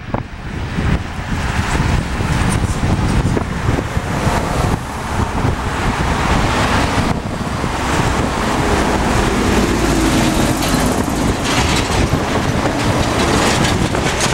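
Boeing 737-800 airliner's jet engines, a loud steady roar and rumble.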